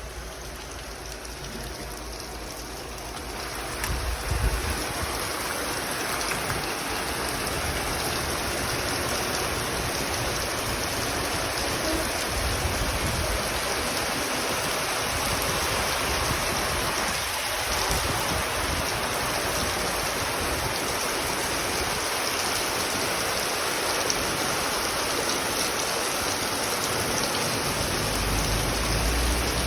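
Heavy rain falling steadily, a dense even hiss that grows louder about four seconds in and then holds.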